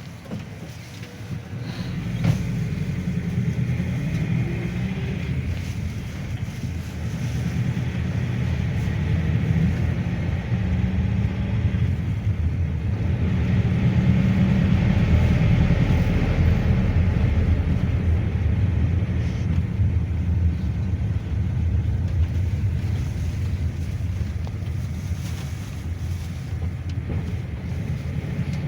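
GAZelle Next minibus on the move, heard from inside the passenger cabin: a steady low engine and road rumble. It swells about two seconds in, is loudest around the middle and eases a little near the end.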